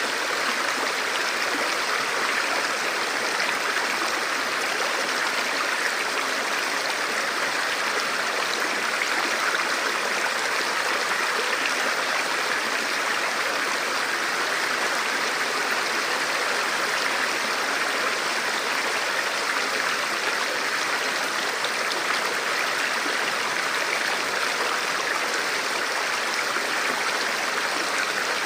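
Forest river or stream flowing steadily over rocks, a continuous even rush of water.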